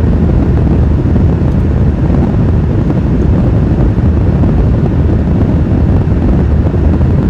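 Steady low rumble of a car driving along: road and wind noise with no distinct events.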